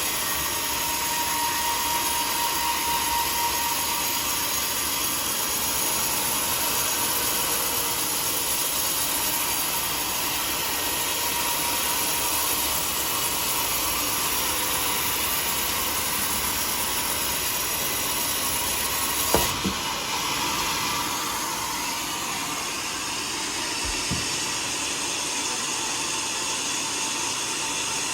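Sawmill saw running steadily, a continuous machine whir, with a short knock about two-thirds through and another a few seconds later.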